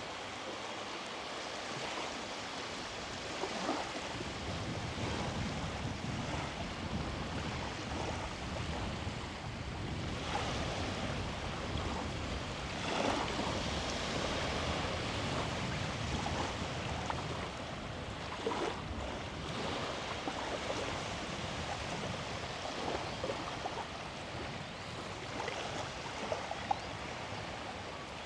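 Sea surf washing onto the beach, a steady rush of breaking waves that swells and eases, with a few faint short ticks over it.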